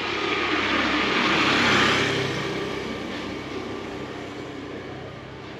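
A motor vehicle passing by on the road. Its engine hum and tyre noise build to a peak about two seconds in, then fade slowly away.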